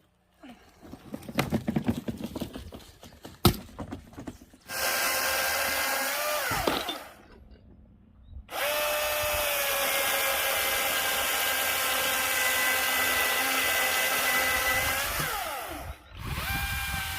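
Battery-powered cordless chainsaw, its electric motor whining steadily as it is triggered in runs: a short run that winds down, then a longer run of about seven seconds whose pitch sags near the end before it stops, then it starts again. Before the first run there is irregular clattering of wood and handling, with one sharp knock.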